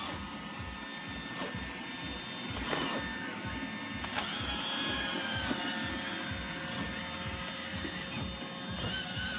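iRobot Roomba 880 robot vacuum running: a steady mechanical whir, with a couple of knocks about three and four seconds in and a higher whine that shifts in pitch through the middle.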